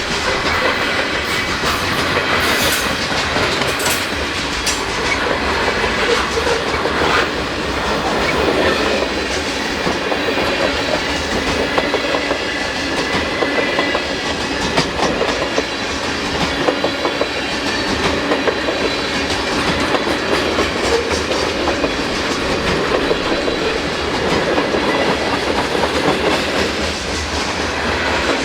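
Train cars rolling past, their wheels clicking steadily over the rail.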